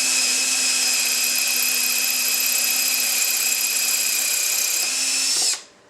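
Electric drill running steadily in reverse with a left-hand 1/4-inch bit, drilling out the head of a stripped screw; a steady whine that stops abruptly about half a second before the end.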